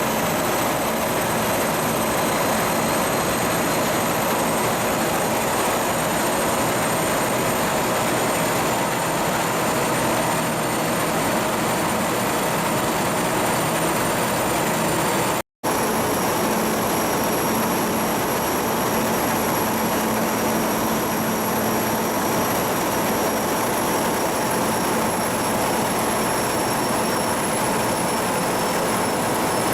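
Cargo ship's diesel engine running steadily under way on sea trial, a loud even machine noise with a low hum and a high-pitched whine over it. It cuts out for an instant about halfway, then carries on unchanged.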